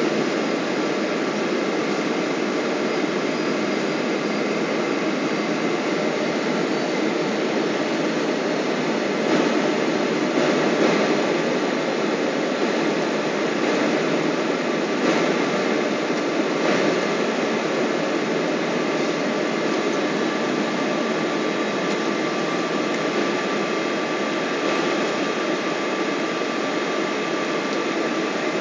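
Steady jet cabin noise inside a Boeing 777 in flight: a constant drone of engines and airflow, with a few faint knocks in the cabin.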